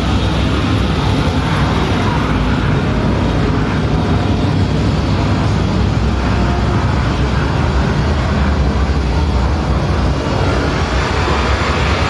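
Steady jet airliner engine noise, as a sound effect for a model plane's landing played over a miniature airport exhibit's loudspeakers, with a constant low hum underneath.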